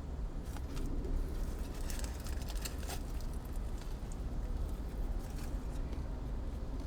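Crunching and crackling of bites into and chewing of a crispy fried chicken sandwich, most dense in the first few seconds, over a steady low rumble.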